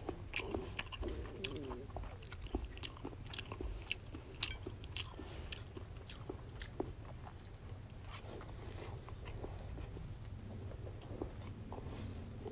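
Close-up chewing of fried rice noodles, with many wet mouth clicks and smacks.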